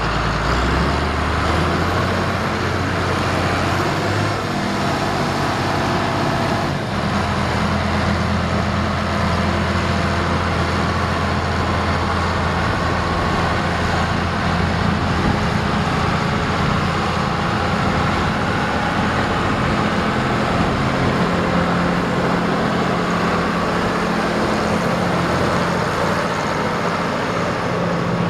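Heavy diesel machinery engine running steadily under load, its pitch stepping up over the first few seconds, with a single brief knock about seven seconds in.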